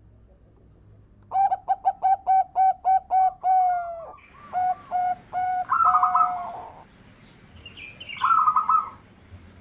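Zebra dove (perkutut) singing: a quick run of about ten short notes, then longer cooing notes, and a rolling trill near the end.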